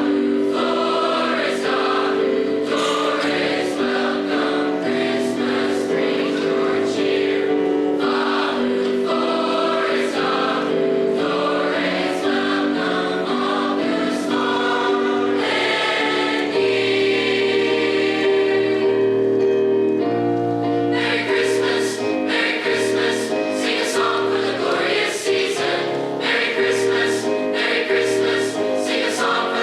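A high school choir singing a song in harmony, with sustained chords that shift from note to note.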